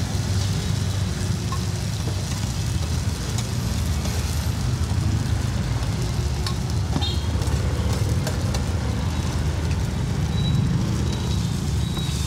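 Cubes of rice-flour cake sizzling in oil on a large flat iron pan, with scattered clicks and scrapes of a metal ladle against the pan. A steady low rumble of street traffic lies underneath and is the loudest part.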